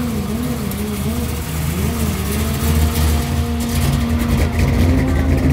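Car engine running at low revs with a deep, steady note, its pitch wavering with small blips of the throttle before settling steady about two seconds in.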